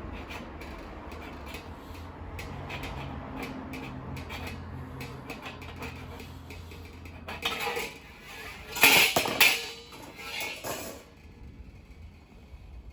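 Metal pieces clanking and scraping against each other. There are scattered light clicks at first, then a louder run of clanks from about eight seconds in. A low steady hum stops about seven seconds in.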